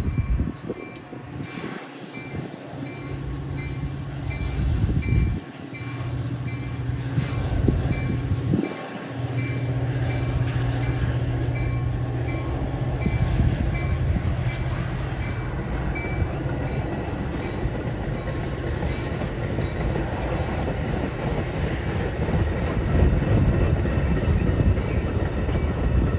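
Train passing close by: a continuous rumble of wheels on rail. A high tone repeats at a steady pace, about every two-thirds of a second, through roughly the first fifteen seconds.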